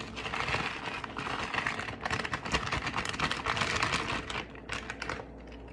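Crushed chips being sprinkled from their bag onto food: a dense run of small crackles and ticks that thins out near the end.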